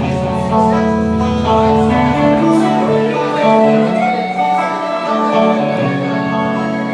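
Music: a guitar playing chords, with held notes over a steady bass line.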